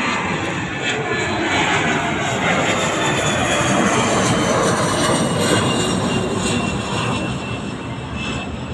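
Airliner passing by, its engine noise swelling to a peak midway and then fading, with thin whining tones that fall steadily in pitch as it goes past.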